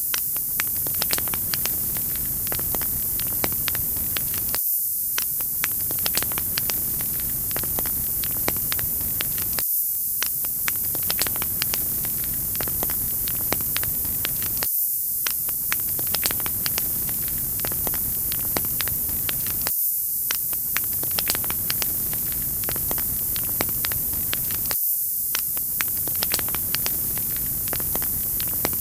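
Crackling wood fire: a steady hiss with many small sharp pops. The same stretch repeats about every five seconds.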